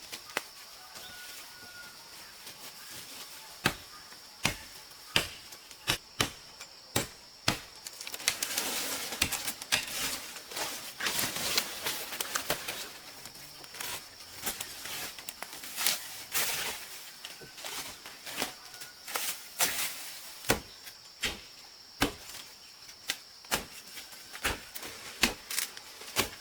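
A series of sharp knocks, irregularly spaced, a few to two per second at times, with stretches of scraping and rustling between them: a hand tool striking, typical of manual work such as chopping.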